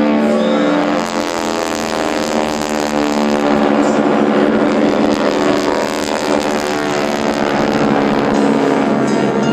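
Loud, steady drone of several propeller planes' radial engines, the AeroShell team's T-6 Texans flying in formation, with the pitch shifting slightly as they pass.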